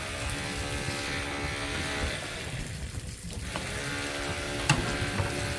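A motor running with a steady hum, stopping about two seconds in and starting again a second later, with a sharp knock near the end.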